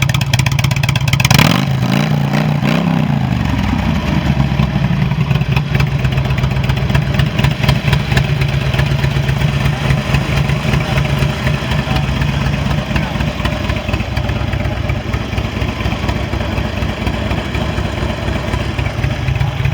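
2006 Harley-Davidson Street Glide's Twin Cam 88 V-twin engine is revved once about a second in, falls back in pitch over a couple of seconds, then idles steadily.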